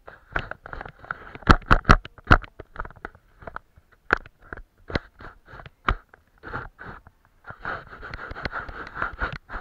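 Paintbrush working watercolour on paper: short scratchy strokes and dabs, with a few sharp taps about two seconds in and a fast run of scrubbing strokes near the end.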